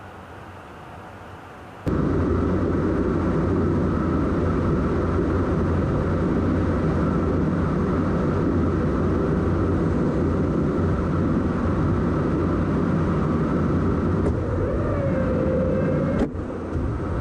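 Loud, steady noise of jet aircraft in flight, starting abruptly about two seconds in. A faint whine rises and then holds near the end, and the noise cuts off sharply at the end.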